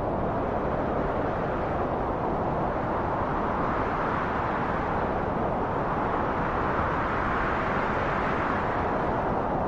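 Steady rushing wind, a continuous even hiss that brightens a little about halfway through and again near the end.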